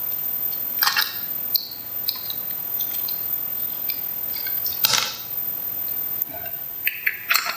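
Plastic parts of a toy airliner being handled, giving a few scattered clicks and clatters over a steady hiss.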